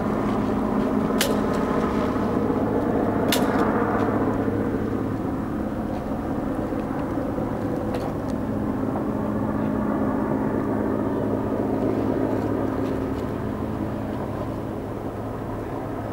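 Helicopter running with a steady, even drone, easing off slightly near the end. A few sharp clicks sound in the first few seconds.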